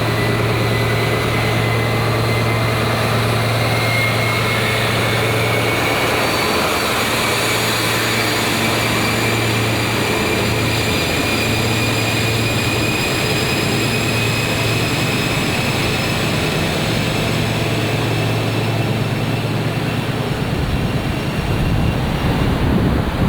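Diesel train running along the line, a steady low drone with a high whine that slowly rises in pitch as it gathers speed, under a constant rushing noise. Near the end the drone gives way to a rough, gusty rumble of wind and sea.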